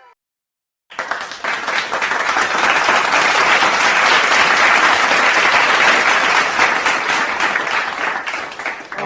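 Crowd applause: many hands clapping together, starting suddenly about a second in and holding steady until it drops away at the end.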